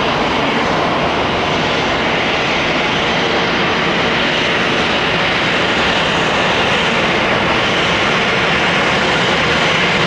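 Jet noise from an arriving Boeing 717-200 airliner's engines: a loud, steady rush that holds without a break.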